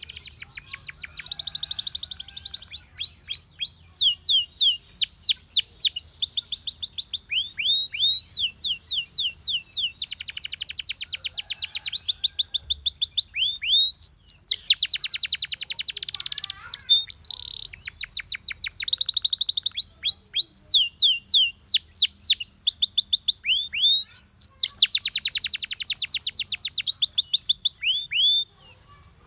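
Domestic canary singing a long, loud song of fast repeated phrases: runs of quick downward-sweeping whistled notes and rolling trills, each phrase lasting a second or two before switching to the next. The song breaks off near the end.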